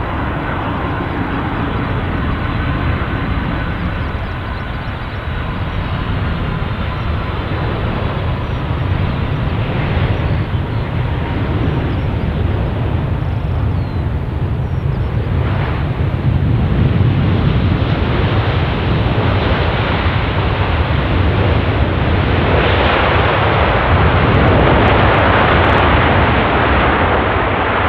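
Lockheed C-5M Super Galaxy's four turbofan jet engines running, a steady rush with a faint whine, growing louder in the second half.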